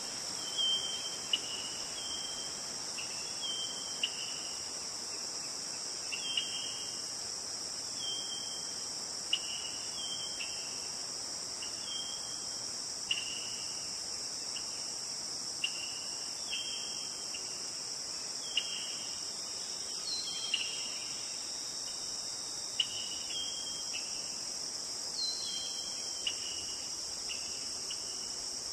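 Steady high-pitched insect chorus, like crickets, with a bird's short falling notes repeated about once a second over it and a few faint clicks.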